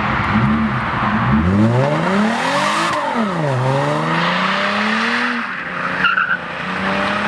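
A car's engine revving hard as it accelerates: the pitch climbs steeply, drops sharply at an upshift about three seconds in, then climbs again more slowly. Another engine hums steadily underneath.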